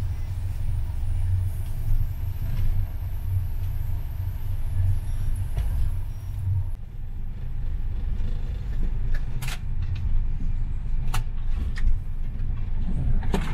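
Steady low rumble of a sleeper train carriage running on the track, heard from inside the compartment on a bumpy ride, with a few sharp knocks in the second half.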